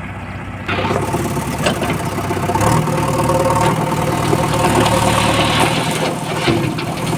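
Heavy diesel engine running under load. It gets louder about a second in, steps up in speed near three seconds in and holds there, with a few short knocks over it.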